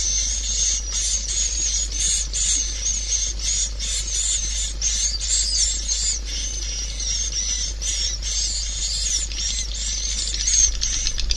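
Swiftlet calls: a dense, unbroken stream of high twittering chirps from many birds, of the kind used as a lure call to draw swiftlets into a swiftlet house. A steady low hum runs underneath.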